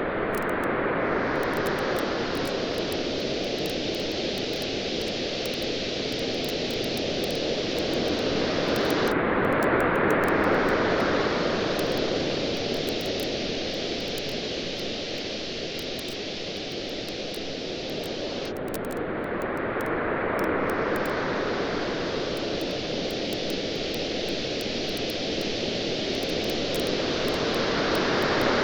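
Ocean waves washing on a beach, swelling and easing about every nine to ten seconds, with the faint crackle of a wood fire throughout.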